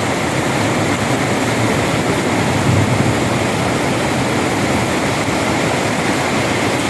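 Heavy downpour: a loud, steady rush of rain and running water. The rainwater downpipes are overflowing, unable to carry the water away.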